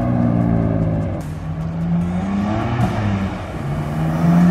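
BMW F80 M3's twin-turbo straight-six on its stock exhaust, accelerating hard: the engine note climbs, drops back at upshifts, and climbs again near the end.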